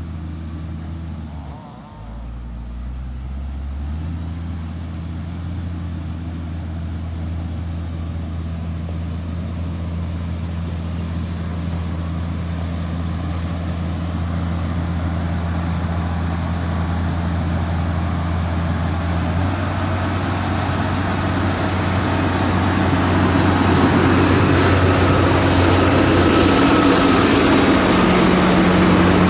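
Motor grader's diesel engine running steadily, with a short drop in pitch and level about two seconds in. Over the last third it grows louder and a rushing noise builds over the engine note.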